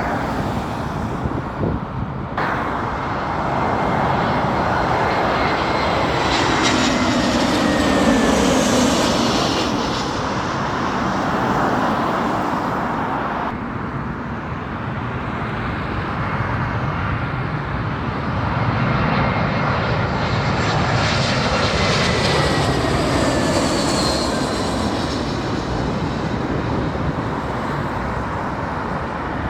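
Jet airliners passing low overhead on approach to land, their engine noise swelling and the whine falling in pitch as each goes by. Two such passes, the louder about eight seconds in and another around twenty-two seconds.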